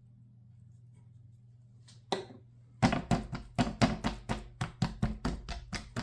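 Quiet at first, then a single knock about two seconds in, followed by a quick, regular run of thuds on the seasoned raw chicken breast on the board, about four a second.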